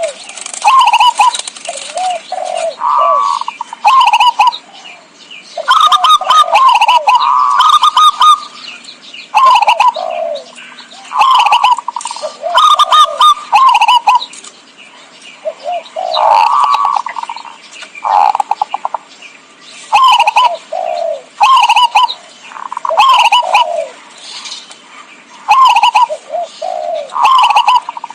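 Zebra dove (perkutut) cooing: short, rapid staccato call phrases repeated every second or two in bouts, used as a trapping lure call.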